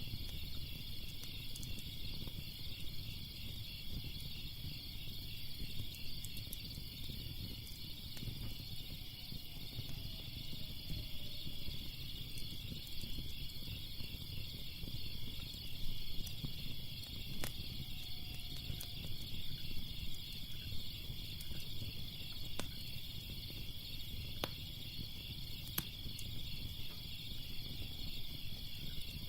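A steady chorus of crickets chirping in a fast pulsing trill, over a low rumble with a few sharp crackles of a wood fire scattered through.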